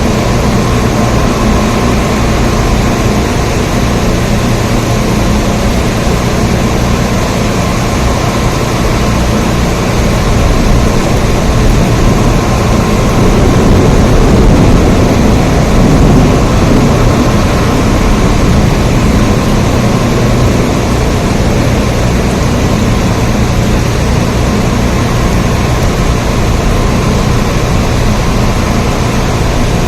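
Steady rain, a dense, even hiss with a strong low rumble underneath and no breaks.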